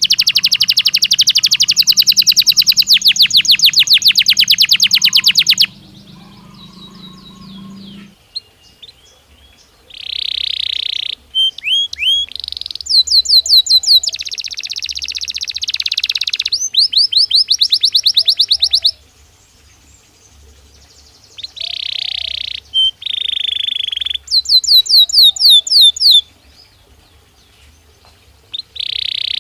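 Belgian canary singing: phrases of fast, evenly repeated high notes and rolling trills, each a few seconds long, with short pauses between them.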